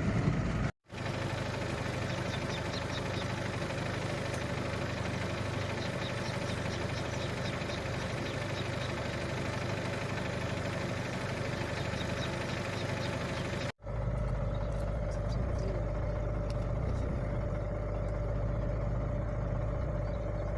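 A vehicle engine runs steadily with a low hum. The sound drops out briefly twice, about a second in and again near the middle, and the low rumble is heavier after the second break.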